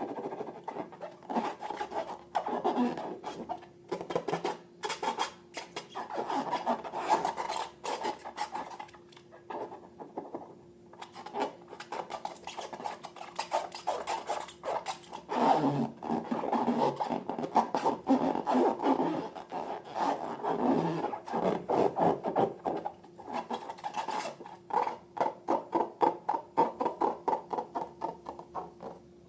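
Slime being squished and worked, with bursts of sticky clicks and crackles and a fast run of clicks near the end.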